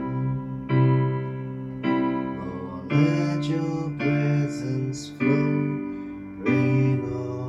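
Electric piano playing slow sustained chords, a new chord struck about once a second.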